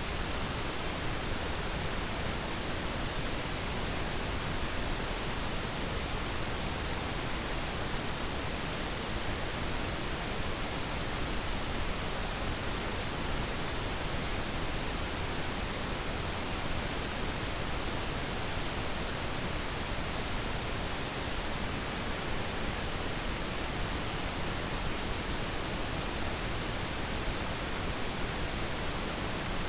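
Steady pink noise: an even, unchanging hiss with no other sounds.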